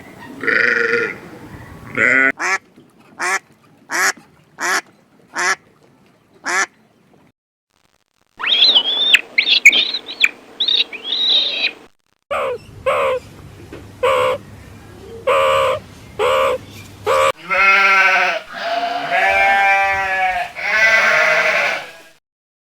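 Ducks quacking in a string of short, repeated calls, about two a second. A cluster of high chirping follows just past the middle, then more quacks and longer, lower calls near the end.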